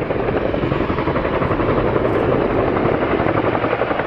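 RAF Chinook tandem-rotor helicopter with both rotors beating loudly, a fast, steady pulsing of blade noise as the aircraft comes out of a quick-stop manoeuvre.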